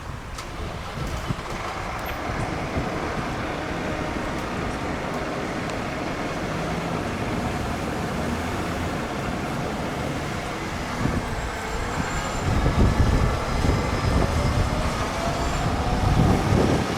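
Road traffic: a steady rush of passing vehicles that slowly grows louder, with heavy low rumbles swelling twice in the second half and a faint rising tone in the last few seconds.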